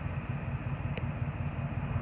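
Ford F-150 pickup engine idling through an aftermarket Black Widow exhaust, a steady low rumble, with a single short click about a second in.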